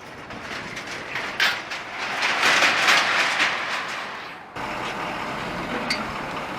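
Vehicle noise swelling to a peak and fading over a few seconds, then changing abruptly to a steady running-vehicle hum with a small click.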